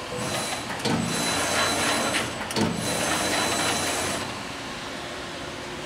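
A 1989 Amada Pega 244 CNC turret punch press, a crankshaft press with hydraulic clutch and brake, cycling through its automatic program. A loud mechanical whir with steady high whines and a few sharp knocks lasts about four seconds, then it drops back to a low hum.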